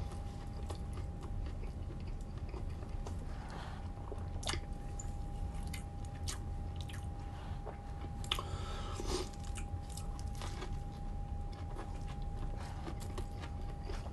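Close-miked biting and chewing of a Wendy's chicken sandwich, with many small wet mouth clicks and smacks, and a louder bite or chew a little past the middle. A faint steady tone hums underneath.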